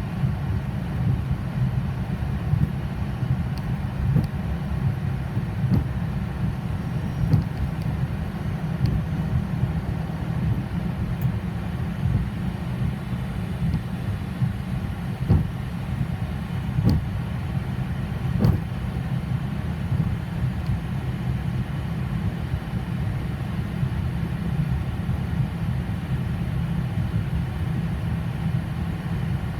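Boeing 737 flight-deck noise while taxiing: a steady low rumble from the idling engines and aircraft systems, with a few light knocks around the middle.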